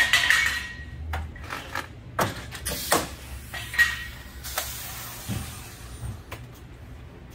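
Workshop clatter: a rapid, irregular series of knocks and clanks of tools and parts being handled, with a short metallic ring twice and a brief hiss around the middle.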